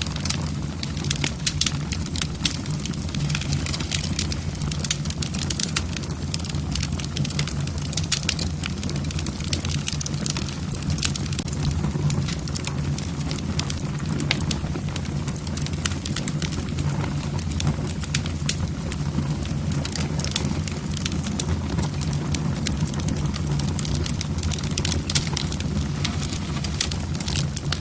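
Wood fire burning in a fireplace: logs crackling with frequent small pops and snaps over a steady low rumble of the flames.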